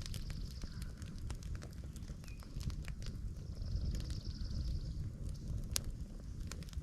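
Freshly lit campfire of small sticks crackling, with scattered sharp pops over a low rumble; a high buzz comes and goes in the background.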